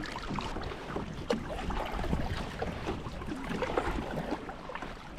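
Water sounds around a kayak on the move, with wind on the microphone and a light knock about a second in.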